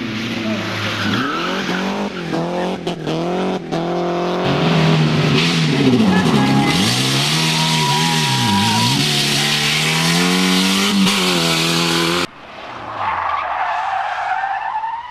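Rally car engine revving hard, its pitch climbing and dropping again and again through gear changes and throttle lifts, with tyres skidding and sliding through the middle stretch. About twelve seconds in the sound cuts off abruptly, and another rally car's engine is heard coming up and going past, its note rising then falling.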